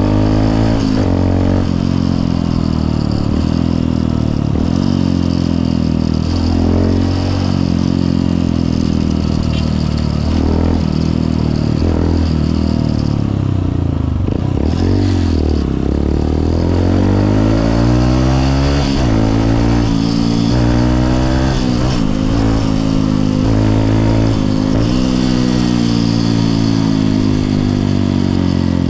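Honda CRF150L's single-cylinder four-stroke engine under way, revs repeatedly climbing and falling as the bike accelerates and shifts gears. About halfway through, the revs drop low, then build up again in a long climb.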